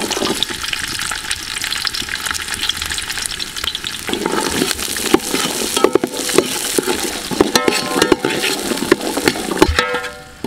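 Whole shallots sizzling and crackling in hot oil in a large metal pot, just tipped in and being stirred with a slotted metal ladle. From about four seconds in, the ladle adds scrapes and clinks of metal on metal.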